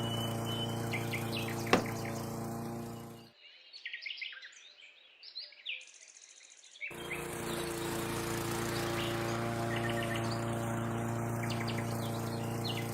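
Steady hum of a small motor driving a DIY miniature machine model, with birds chirping. The hum cuts out abruptly about three seconds in, leaving only the birds, and comes back abruptly about seven seconds in.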